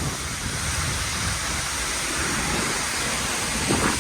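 Seljalandsfoss waterfall's falling water rushing steadily, with wind buffeting the microphone.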